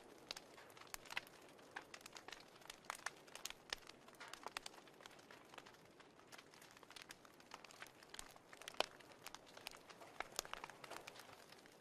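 Fireplace crackling: faint, irregular pops and snaps of burning wood over a soft steady hiss.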